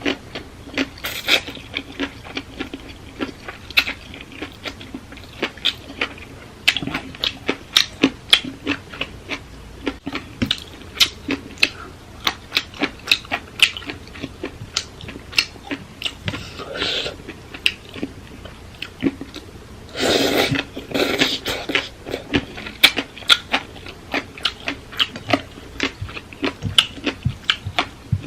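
A person chewing and biting crunchy food, which fits shredded green papaya salad, close to the microphone, with many crisp irregular crunches. A couple of short, louder noisy bursts come about two-thirds of the way through.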